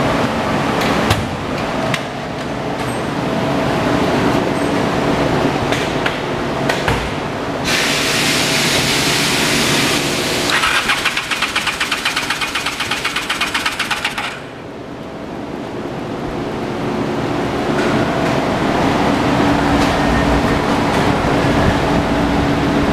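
Honda VT750 Shadow ACE's V-twin engine running steadily. About eight seconds in, a louder rushing noise comes in over it for several seconds, pulsing quickly in its second half, then cuts off and the engine sound builds back up.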